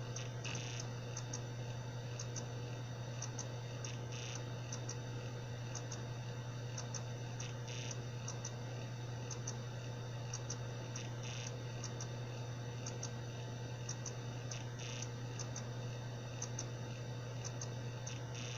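Seagate Barracuda 7200.7 80 GB hard drive (ST380819AS) making a bad sound: a steady low spindle hum with repeated short clicks and ticks, and a longer burst about every three and a half seconds. This is the sound of a failing drive.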